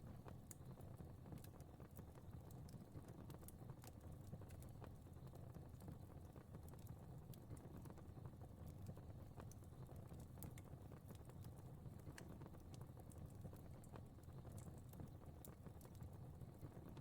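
Fireplace fire crackling faintly: a soft low rumble of flame with irregular sharp little pops and snaps scattered throughout.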